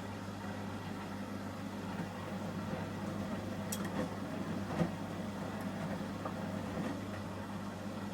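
Samsung front-loading washing machine in its Ecobubble detergent stage, running with a steady low hum. A few light clicks and knocks come near the middle, the sharpest about five seconds in.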